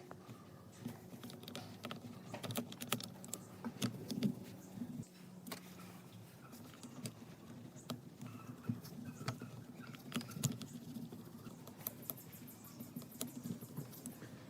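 Irregular light clicks and taps, as from small hand work on parts, over a faint low hum that stops about five to six seconds in.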